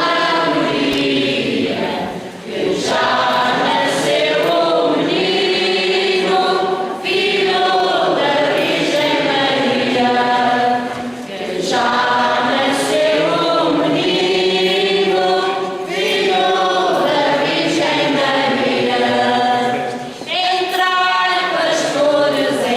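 A choir singing a church hymn in long phrases of about four to five seconds, with short breaks for breath between them.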